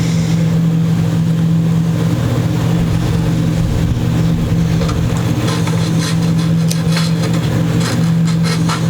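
A steady low hum, and from about five and a half seconds in, quick back-and-forth rasping strokes of a file or abrasive on a guitar fret, taking down a high fret.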